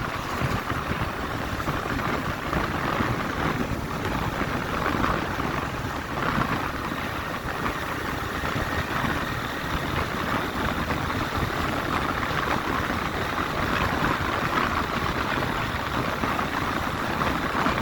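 Motorcycle riding at road speed: steady engine and wind noise with no pauses.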